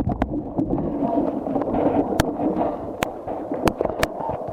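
Muffled gurgling water heard through a wet camera microphone, with sharp clicks and crackles every so often; the waterlogged camera is failing.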